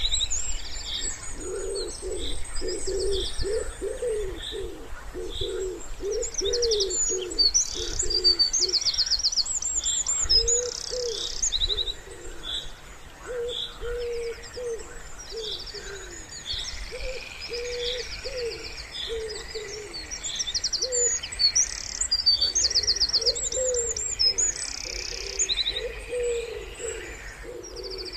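Wood pigeon cooing in repeated phrases, with small songbirds singing high, quick trilling phrases over it.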